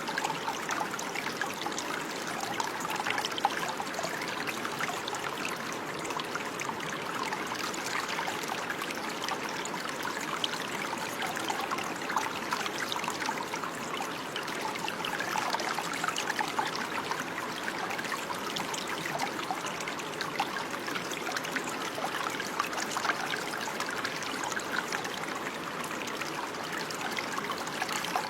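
Running water, a small stream flowing and trickling steadily, with a constant light babble.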